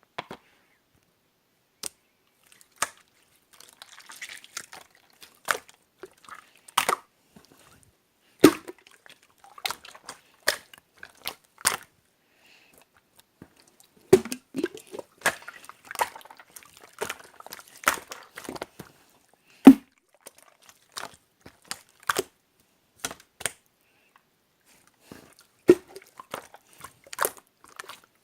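Clear blue slime being worked by hand, giving irregular sharp clicks and pops, a few of them loud, with short quiet gaps between.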